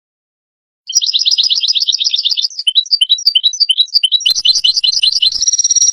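European goldfinch singing: rapid twittering trills and chirps, starting about a second in after silence.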